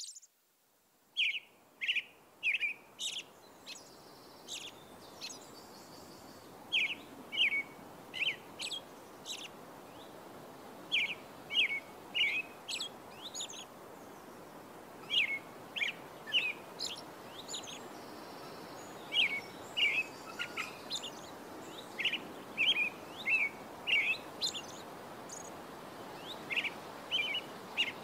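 Small birds chirping in many quick, short calls, over a steady background hiss that fades in during the first few seconds.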